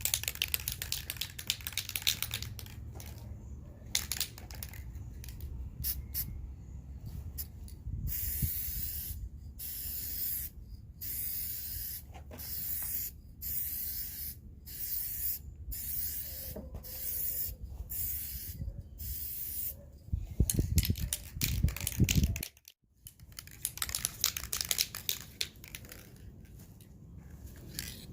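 VHT aerosol tint spray hissing from the can in about a dozen short, evenly spaced bursts, roughly one a second, as coats are laid on a tail light lens. Handling knocks and rustles come before and after the spraying.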